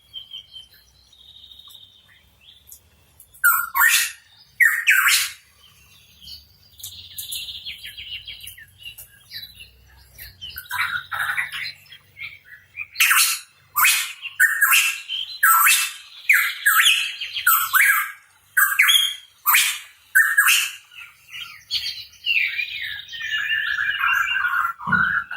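Pitohui calling: loud, rough squawking notes in quick series, mixed with rapid warbling chatter.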